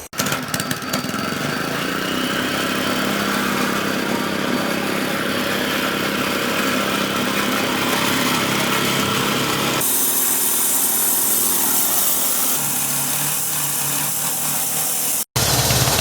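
Engine-driven concrete cutting saw running steadily as it cuts the floor slab. Its sound changes about ten seconds in and breaks off for an instant near the end.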